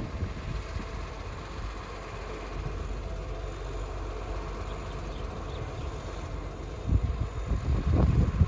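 Garbage truck running as it tips off its load, a steady low rumble. A louder, uneven rumble starts near the end.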